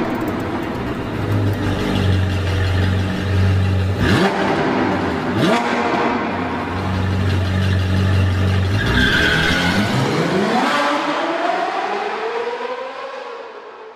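Sports car engine running with a deep, steady note, with two sudden sweeps a little after the start. About two-thirds of the way in it revs up in a long rising climb, then fades out.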